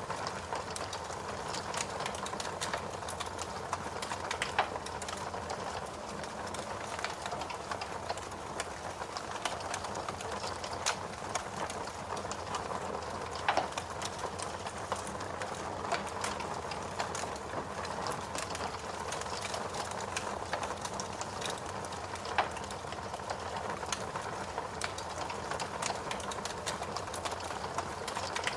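Steady rain mixed with a crackling wood fire in a fireplace: a constant even hiss with scattered sharp pops and snaps from the burning logs.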